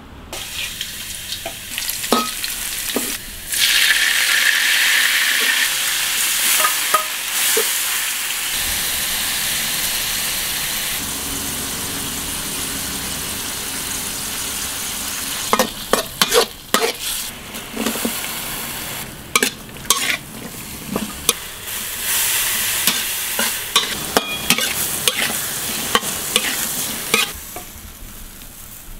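Squid pieces frying in hot oil in a steel wok, a steady sizzle that gets much louder a few seconds in as the food goes into the oil. Later a utensil repeatedly knocks and scrapes against the wok as the stir-fry is stirred.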